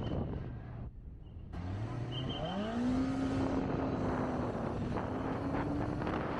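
Kawasaki Ninja ZX-25R's inline-four engine easing off briefly, then revving up in a quick rising pitch and holding steady revs as the motorcycle accelerates and cruises.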